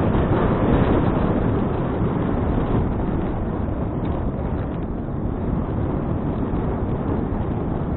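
Steady wind noise blowing across an action camera's microphone while riding a bicycle.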